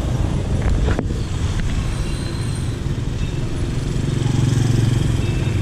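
Motor traffic on a road, with an engine hum swelling louder about four seconds in as a vehicle passes close.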